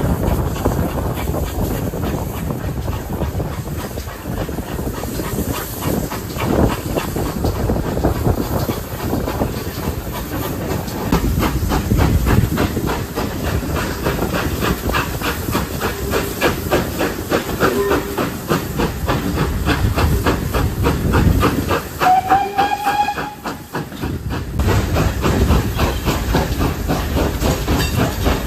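Great Western pannier tank steam locomotive running, its rapid exhaust beats over a continuous hiss of steam. Late on it gives a short whistle toot.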